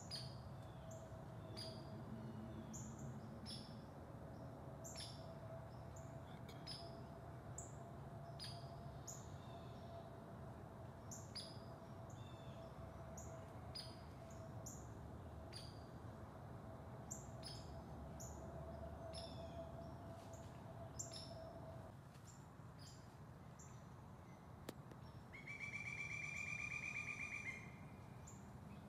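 Songbirds giving many short, high chips, faint and spaced out, over a faint steady hum that stops about three-quarters of the way through. Near the end a louder buzzing trill lasts about two and a half seconds.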